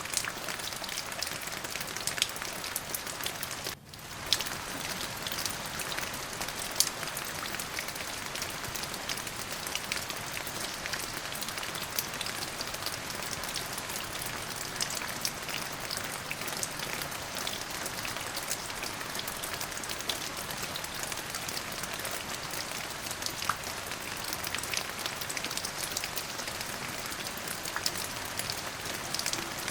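Steady rain falling on a surface, a continuous hiss with many individual drops ticking through it. The sound dips briefly about four seconds in, then carries on as before.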